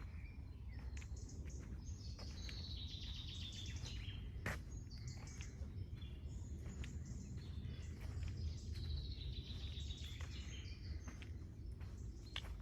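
A songbird singing twice, each song a quick run of notes that falls in pitch, over a steady low rumble of outdoor background noise, with scattered sharp clicks.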